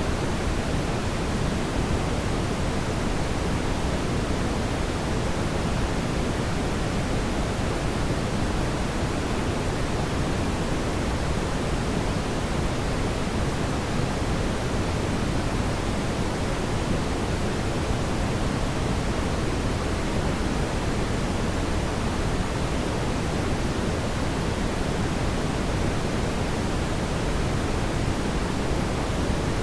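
Steady, even rushing noise, fullest in the low and middle range, with no distinct pops or crackles.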